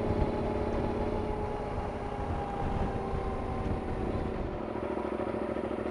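Yamaha Super Ténéré XT1200Z parallel-twin motorcycle engine running at low speed, its note turning steadier and deeper near the end.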